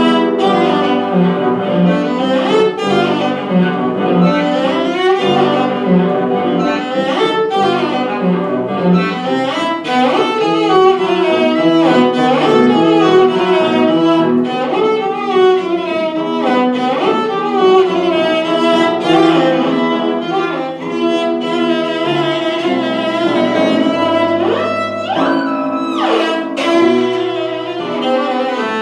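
Bowed string instruments playing classical music live, held notes and moving lines throughout, with a quick rising run near the end.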